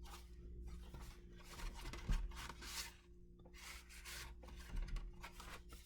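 Paper pages and clear plastic pockets of a handmade journal rustling and rubbing as they are turned and handled, with a soft knock about two seconds in.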